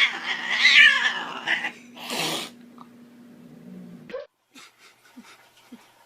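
A pet's drawn-out, wavering vocal call, followed about two seconds in by a short, sharp hiss-like burst.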